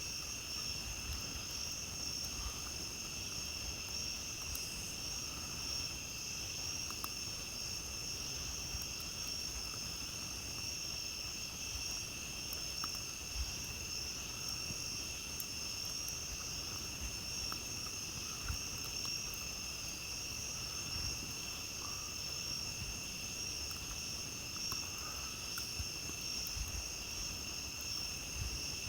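A steady, high-pitched chorus of night insects such as crickets, sounding at two distinct pitches, with occasional faint crackles from a campfire.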